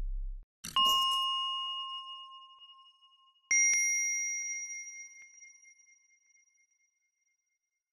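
Two bell-like ding sound effects. The first comes about a second in, just after a short swish, and rings down over about two seconds. The second is higher-pitched, comes with a sharp click about three and a half seconds in, and fades over about three seconds.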